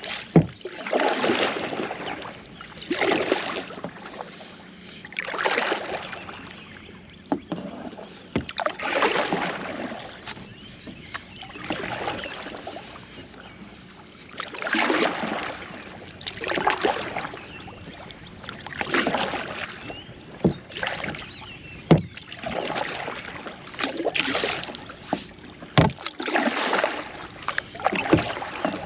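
Kayak paddle strokes in the river water, a splashing swish repeating about every two to three seconds, with a few sharp knocks in between.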